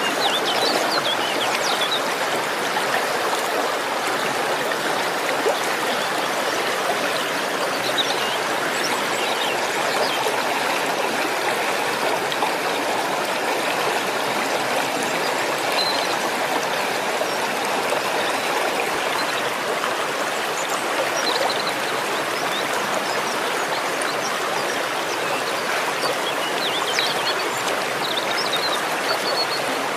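Waterfall's water falling and rushing in a steady, unbroken roar of noise.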